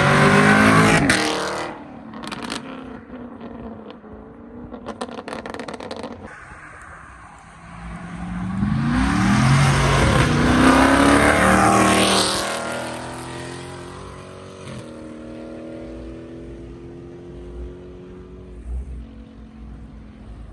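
Cars driving past one after another. One engine is loud right at the start and fades after a second or so. Another accelerates in, its pitch rising, and is loudest about halfway through before dropping to a steadier running tone.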